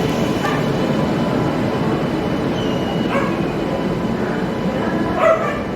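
Express train rumbling steadily at the station, with three short, sharp calls over it, about half a second, three seconds and five seconds in.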